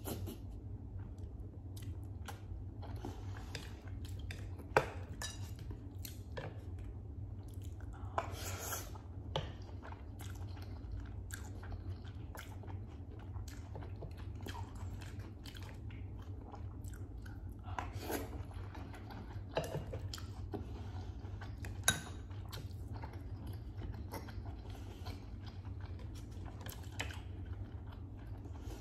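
Close-miked chewing and mouth sounds of someone eating instant noodles and cooked vegetables, with a steady low hum underneath. Scattered soft clicks and a few sharper ones are heard, among them a sharp one about five seconds in and another about twenty-two seconds in.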